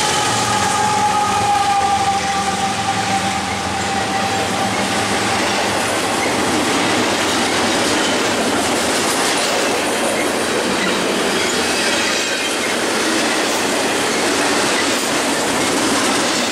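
A double-stack intermodal freight train passing close at speed: the diesel locomotives' engine hum and a high steady whine fade away over the first few seconds, leaving the steady rumble and clatter of container well cars rolling over the rails.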